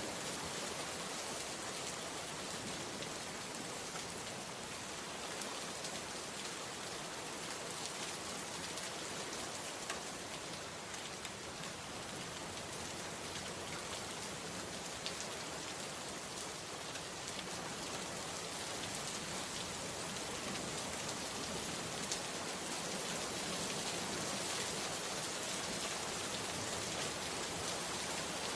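Steady rain falling, with the patter of individual drops on a surface. It grows slightly heavier in the last third.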